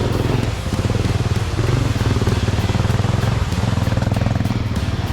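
Dual-sport motorcycle engine running steadily while riding, a fast, even firing beat with a low drone.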